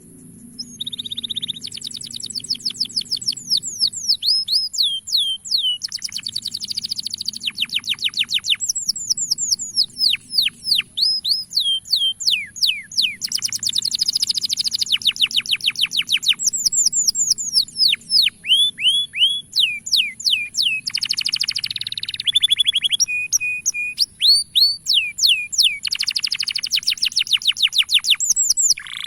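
Male canary singing: rapid trills and runs of quick down-slurred chirps, the phrase changing every second or two, over a steady high-pitched whine.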